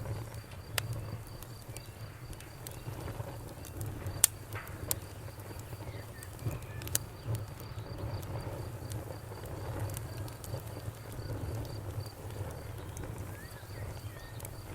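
Bonfire crackling, with sharp irregular pops (the loudest about four seconds in) over a low steady rumble, while a cricket chirps in an even pulse of about four chirps a second.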